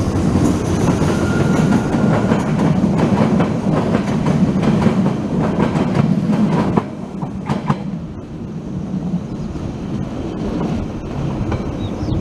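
Passenger train passing close by and running away down the line: a loud rumble of wheels and coaches with rapid clicks over the rail joints. The sound drops suddenly about seven seconds in as the last coach goes by, leaving a quieter rumble with scattered clicks.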